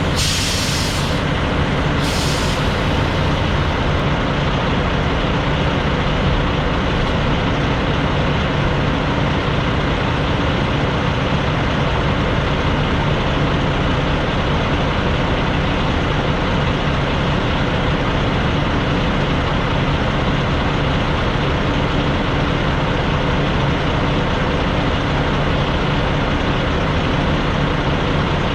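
Tractor-trailer driving, a steady drone of diesel engine and road noise, with two short hisses of air in the first few seconds.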